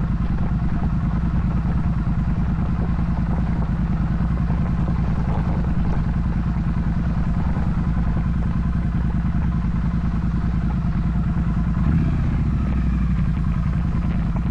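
Triumph Street Twin 900's parallel-twin engine running steadily under way, with a brief change in the engine note about twelve seconds in.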